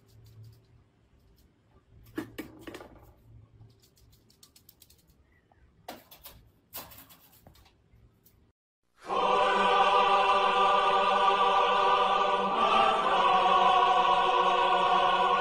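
Dog howling: one long, steady held howl starting about nine seconds in. Before it there is only faint room noise with a few light clicks.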